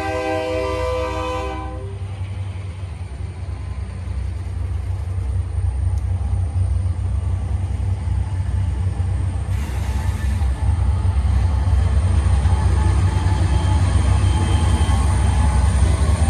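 A train's air horn sounds a chord of several notes and cuts off about a second and a half in. Then the train's low rumble grows steadily louder as it approaches.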